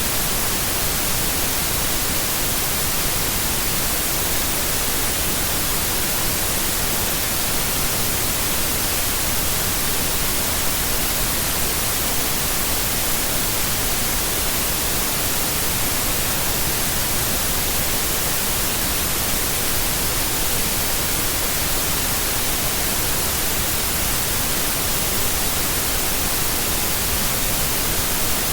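Steady white noise: an even, unbroken hiss at constant loudness, strongest in the highs.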